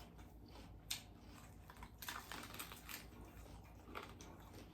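Faint, irregular crisp clicks and crackles of someone chewing a lettuce wrap filled with crispy chicken and bacon.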